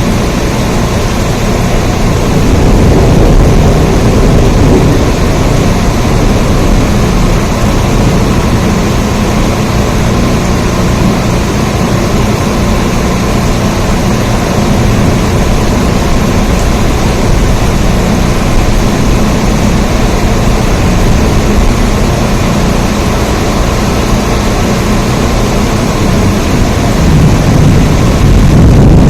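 Steady heavy rain, a dense unbroken hiss with a deep rumble underneath.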